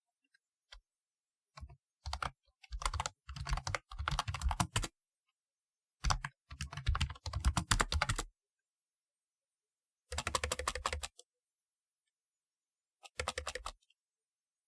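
Typing on a typewriter-style computer keyboard: four runs of rapid clacking keystrokes separated by short pauses.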